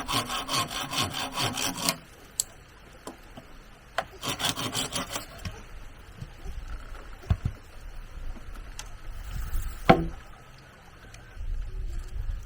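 Hand sawing on bamboo in quick, even back-and-forth strokes that stop about two seconds in. A shorter burst of strokes follows around four seconds in, then a couple of single knocks.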